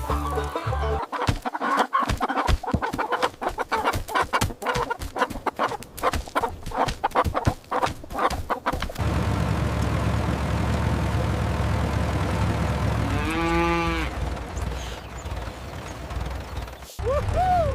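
Chickens clucking in quick, busy strokes for about the first half, then a steady low hum. Over the hum a cow moos once about two-thirds of the way in, and a short rising-and-falling call comes near the end.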